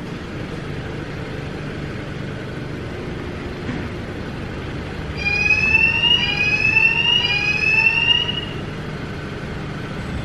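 PDQ LaserWash 4000 touch-free car wash running with a steady low hum. About five seconds in, its siren sounds three rising whoops, each about a second long, one after another.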